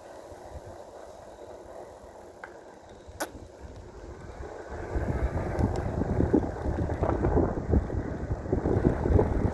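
Wind rumbling and buffeting on the microphone, starting suddenly about halfway through and continuing loudly, after a single sharp click a little earlier.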